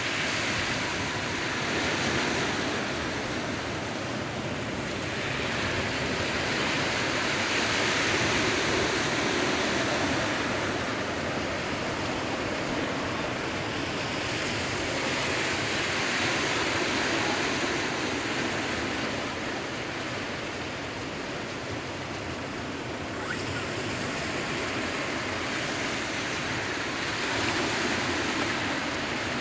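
Sea waves surging and receding, a steady wash of water noise that swells and fades in slow surges every several seconds.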